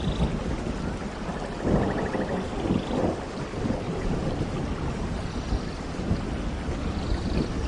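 Steady heavy tropical rain with a low rumble that swells a couple of seconds in. Faint bird calls sound high above it, including a short trill.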